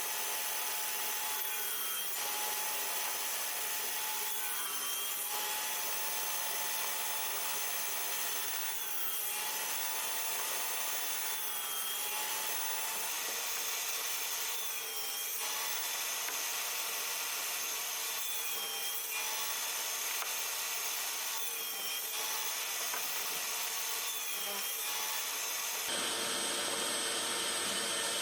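A woodworking power tool runs steadily against wood, with short dips about every three seconds as each stroke or pass ends and the next begins.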